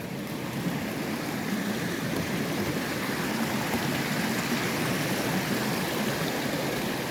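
Running water: a steady rush of flowing stream water.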